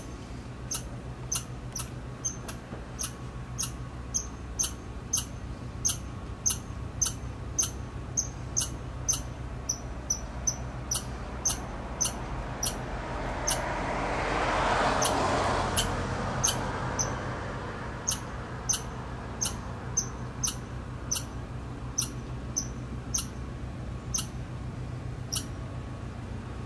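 Red squirrel giving a long run of short, sharp, high-pitched chirping calls, about one or two a second. A rushing noise swells and fades midway.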